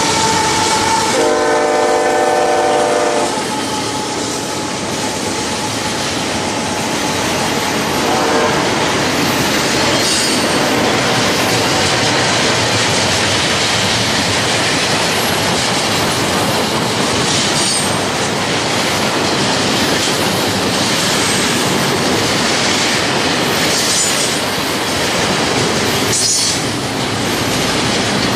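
Freight train passing behind diesel locomotives. A locomotive horn sounds a chord that changes about a second in and stops about three seconds in. After that comes the steady rush and clickety-clack of freight cars rolling over the rails.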